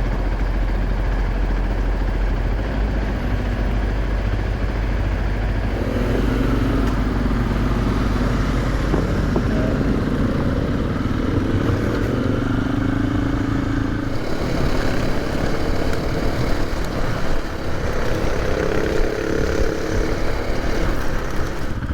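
KTM 500 EXC dirt bike engines running, steady at first, then revving up and down from about six seconds in.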